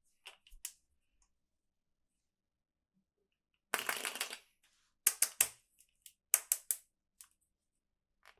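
Plastic toys and packaging being handled: a short crinkling rustle about four seconds in, then two quick runs of sharp plastic clicks and taps, with a few lighter ticks before and after.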